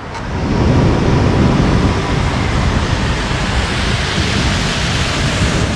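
Wind buffeting the microphone of a rider moving along on an electric skateboard: a loud, steady rushing rumble, heaviest in the low end.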